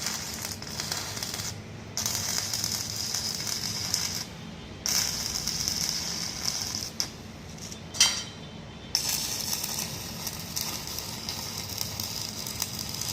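Electric arc welding on steel steps, the arc crackling in runs and stopping briefly three times between beads, with a sharp click about eight seconds in.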